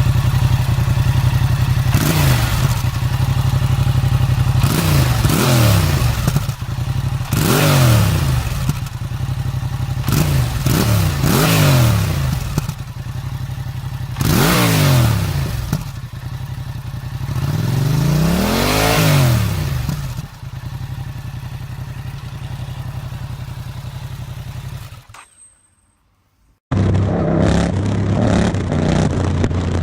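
Yamaha MT-07's parallel-twin engine through an aftermarket exhaust, idling and revved about six times, each blip rising and falling back to idle. The sound drops out for about a second and a half near the end, then another idling engine picks up.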